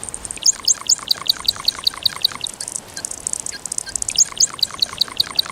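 Male Jackson's widowbird giving his gurgling courtship song, the final call of his display: a rapid run of repeated notes, about five a second, starting about half a second in. A second, shorter run comes near the end.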